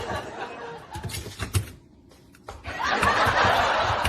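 People laughing, broken by a short near-silent gap about halfway through, after which louder, denser laughter comes in.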